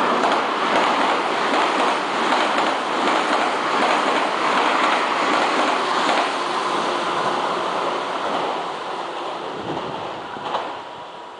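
Meitetsu electric train running past, its wheels clacking over the rail joints, with the noise dying away near the end as it moves off.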